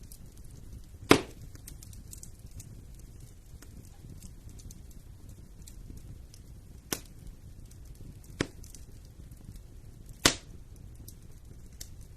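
Wood fire in a fireplace burning with a steady low rumble and constant small crackles, and four sharp loud pops, about a second in, twice near the middle and once near the end.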